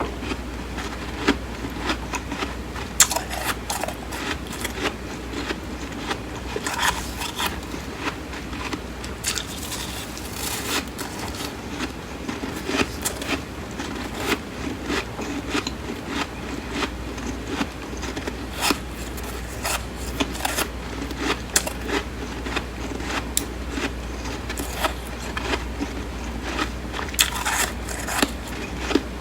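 Close-up chewing and crunching of flaky, crisp freezer frost: a continuous run of small crackles and crunches, with sharper, louder crunches every second or so.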